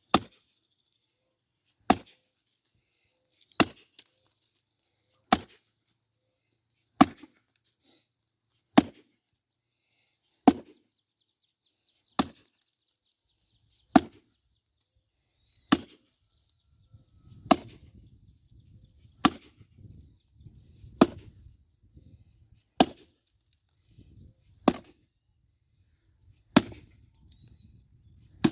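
An axe chopping into a log with steady, evenly paced blows, about one every two seconds, sixteen strokes in all. A low rumble sits under the blows in the second half.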